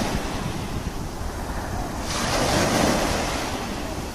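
Sea waves washing in, with a wave surging up about two seconds in, and wind rumbling on the microphone.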